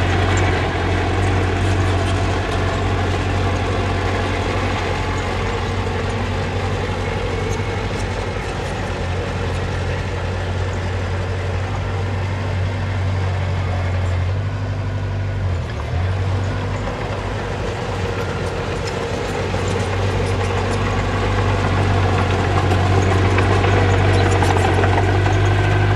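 Diesel engine of a small bulldozer running steadily under load, a deep even drone that eases a little midway and grows louder over the last few seconds.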